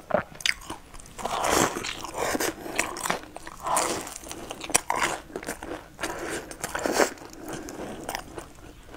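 Biting and chewing a crumb-coated twisted bread dipped in white cream: several crunchy bites with chewing between them.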